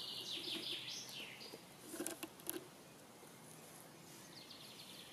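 Faint songbird singing a run of quick repeated high notes, then a second shorter run near the end, with a few light rustles and clicks about two seconds in.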